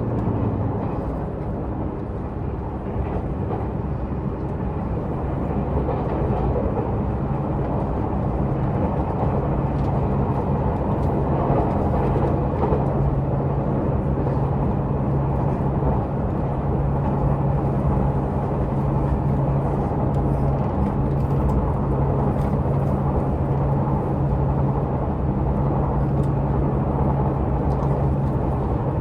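Diesel engine of a Tze-Chiang diesel multiple unit (diesel railcar) running steadily under power, with a held low engine note over the rumble of wheels on track, heard from inside the carriage. The engine note shifts and dips slightly in the first couple of seconds, then holds steady.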